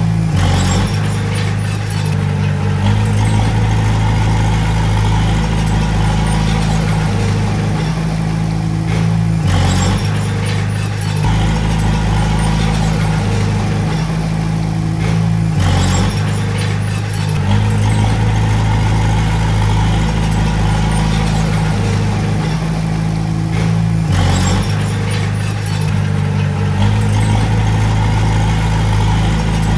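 Komatsu D20A bulldozer's diesel engine running steadily while working, its engine note shifting up and down every several seconds.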